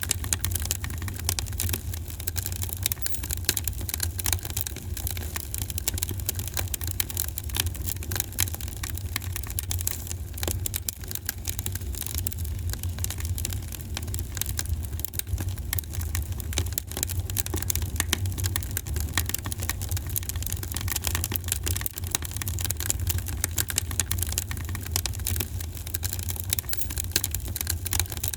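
Wood fire burning in a fireplace, crackling steadily with many small pops and snaps over a low rumble of the flames.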